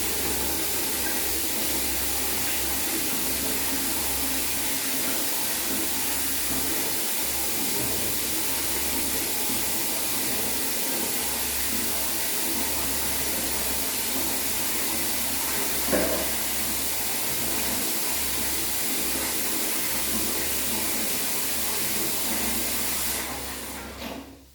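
Water running steadily from a tap during a kitten's bath, with one short sharp sound about two-thirds through. The water is shut off near the end.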